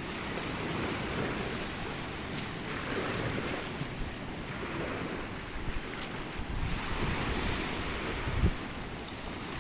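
Sea surf washing in and out in slow swells, with wind buffeting the microphone and one low gust thump near the end.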